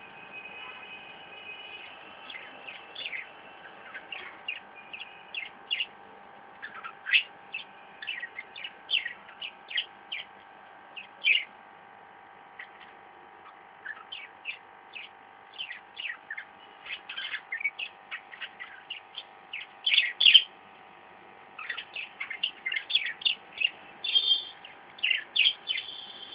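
Pet parrots chirping: many short, sharp chirps in clusters with brief pauses, over a faint steady hum.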